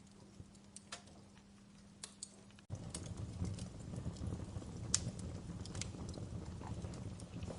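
Wood fire crackling with scattered sharp pops. About two and a half seconds in, the sound cuts out for an instant and returns louder, with a low rumble of burning under the crackles.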